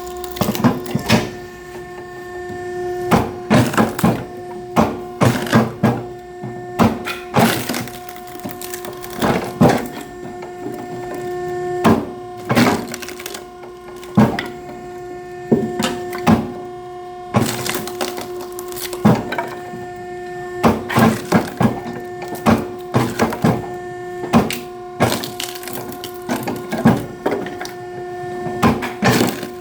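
Firewood splitting machine working oak: a steady motor hum throughout, broken by many sharp cracks and snaps of wood splitting apart, often several in quick succession.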